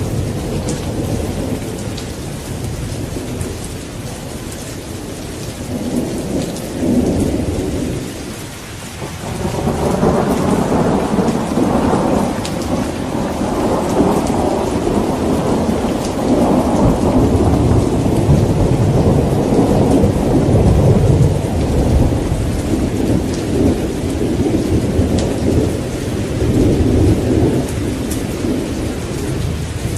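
Steady rain with rolling thunder: the rumble eases off briefly about eight seconds in, then swells into a long, heavy roll of thunder that rumbles on with several surges.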